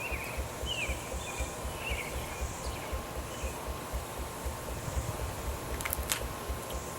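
Steam traction engine of 5/8 scale running, with a low, even beat of about three to four a second. A bird chirps several times in the first few seconds, and two sharp clicks come near the end.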